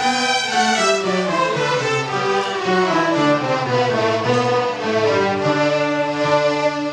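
Bowed string instruments playing classical-style music: several held notes sound together over a lower moving line, changing pitch every second or so.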